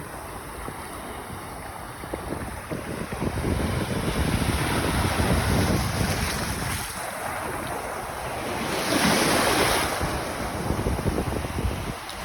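Wind buffeting the microphone over the rush of surf, with a louder wash of a breaking wave about nine seconds in.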